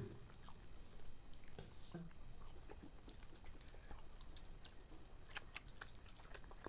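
Faint chewing of balushahi, a soft fried sweet, with scattered small clicks.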